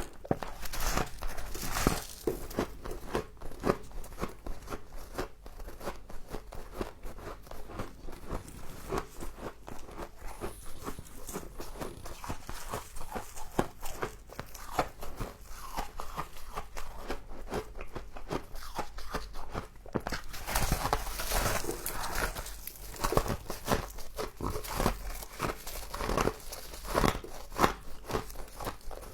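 Close-up biting and chewing of crunchy frost: a dense, irregular run of crisp crunches that grows louder for a few seconds about two-thirds of the way through.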